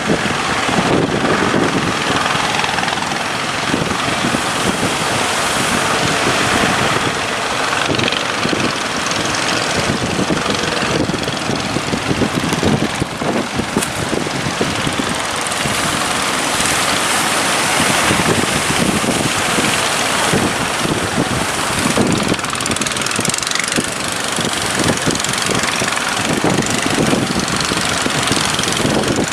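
Fishing boat engines running, mixed with a loud, steady rush of surf and wind.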